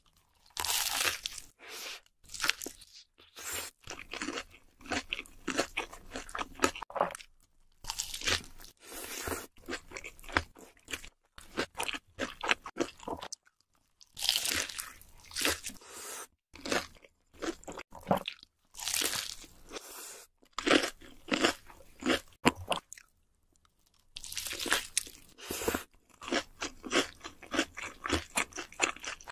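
Close-miked biting and chewing of a crispy fried chicken burger: loud crackling crunches come in runs of a few seconds with short pauses between bites.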